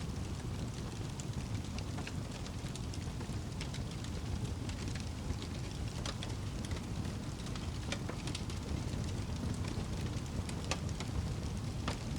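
Wood fire burning with a steady low rumble and scattered sharp crackles and pops, several of them standing out near the middle and near the end.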